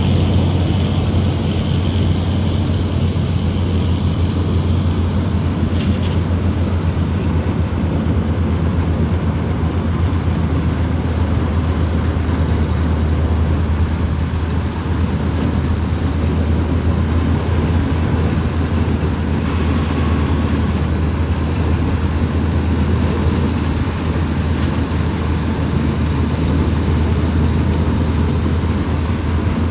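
Combine harvester running steadily under harvest, a loud even drone with a strong low engine hum.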